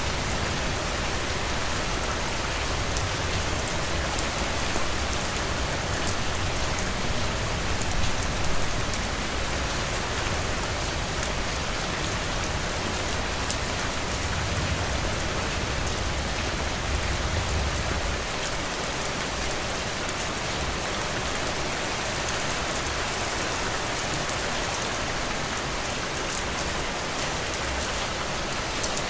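Heavy rain falling steadily on a roof, a dense even hiss with individual drops ticking through it. A low rumble underneath eases a little after about 18 seconds.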